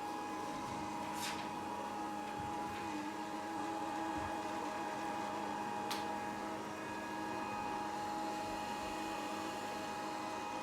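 Grundig VCR 2131 robot vacuum running steadily, its motors giving an even whine made of several fixed tones. There are two brief sharp ticks, about a second in and about six seconds in.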